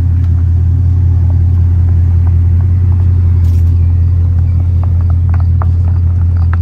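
Bugatti Chiron's quad-turbocharged W16 engine running steadily at low revs as the car creeps along at walking pace, heard from right beside it: a deep, even rumble. A few light clicks come near the end.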